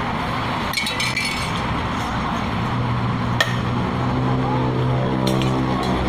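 A few sharp clinks of a utensil striking a dish or glass while a yum salad is mixed, over steady background noise. From about halfway in, a low engine hum rises underneath.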